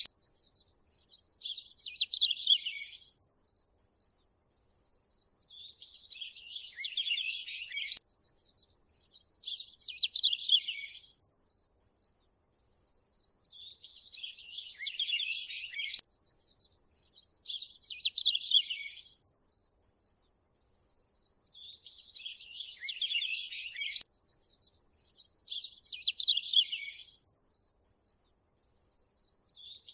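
Looped nature ambience: a steady high hiss with clusters of bird chirps. Each 8-second cycle holds a longer flurry of chirps and then a short one, with a faint click where the loop restarts.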